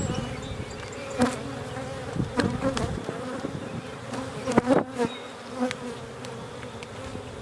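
Carniolan honey bees buzzing steadily around an open hive during an inspection, a dense swarm hum, with a few louder buzzes as single bees fly close past, the loudest about four and a half to five seconds in.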